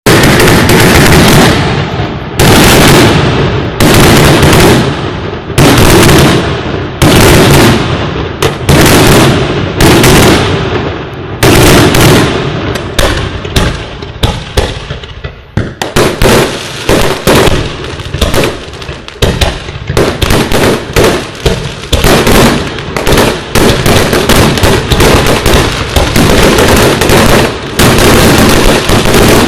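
Fireworks going off close by: loud bangs about one a second, turning about halfway through into a faster, denser run of crackling reports.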